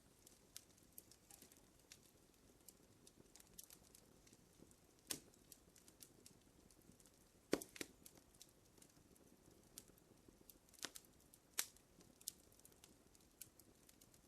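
Fire crackling softly: irregular light ticks over a faint hiss, with a handful of louder pops, the loudest about halfway through.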